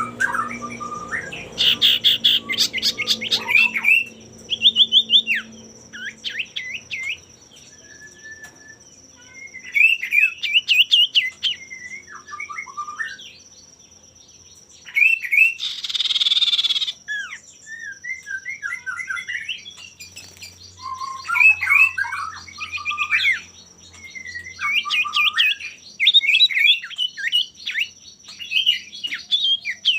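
Male common iora singing in repeated bouts of quick, bending whistled notes with short pauses between phrases, and one harsh rasping burst about halfway through. A faint steady high whine runs underneath.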